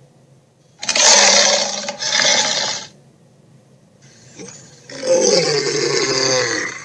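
Dinosaur roar sound effects: a loud, rough roar about a second in, broken briefly in the middle, then a second roar about five seconds in that slides down in pitch as it ends.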